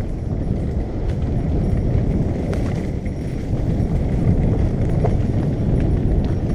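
Wind rumbling on the microphone of a moving bicycle, with a few small knocks and rattles as the bike goes over bumps.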